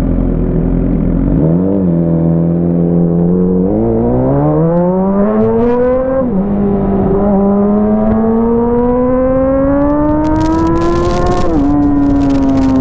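Motorcycle engine fitted with an Avionic aftermarket exhaust, accelerating hard through the gears: the pitch climbs, drops at an upshift about six seconds in, climbs again and drops at another upshift near the end. Wind buffets the microphone in the last few seconds.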